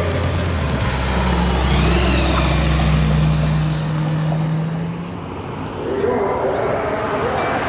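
A car engine running with a steady low drone that fades away about four seconds in, leaving quieter background noise with some wavering voice-like sounds near the end.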